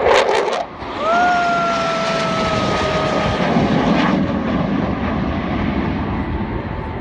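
Display jet flying past at an airshow: a loud rushing roar that sets in about a second in and eases after about four seconds, with a steady high tone riding over it for a few seconds.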